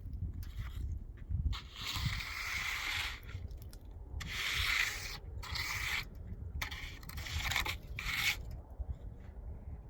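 Rough scraping strokes, about five of them, each lasting under a second, as of something being rubbed or scraped across a rough surface.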